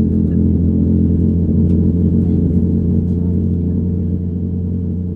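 Steady low rumble with a few held tones, heard inside the cabin of a Boeing 787-9 with Rolls-Royce Trent 1000 engines, easing off slightly over the last two seconds.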